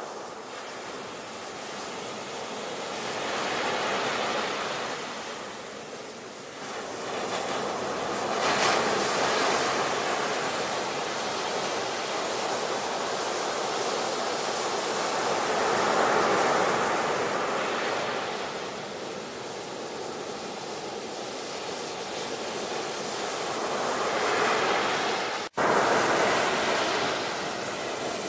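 Ocean surf: waves breaking and washing in, the rushing swelling and falling back several times. The sound cuts out for an instant near the end.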